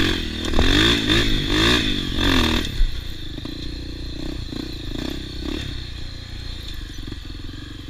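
Off-road trail motorcycle engine revving hard, its pitch rising and falling, for the first three seconds or so. It then settles to a quieter, steadier running sound with a few brief surges.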